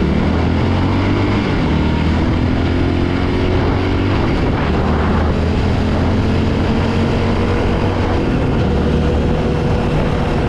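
ATV engine running under way, its pitch rising and falling gently with the throttle, over a steady rush of wind and road noise.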